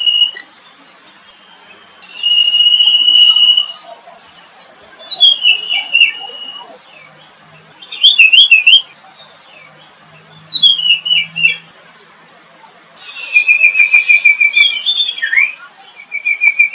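Songbirds singing in separate phrases every two to three seconds: a held high whistle, quick slurred notes and a fast trill near the end.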